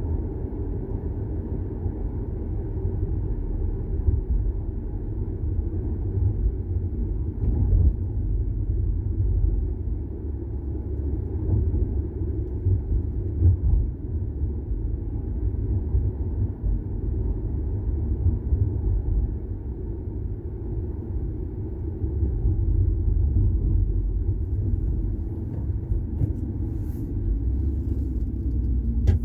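VW Golf 6 TSI on the move, heard from inside the cabin: a steady rumble of engine and road noise that swells and eases a little as it drives.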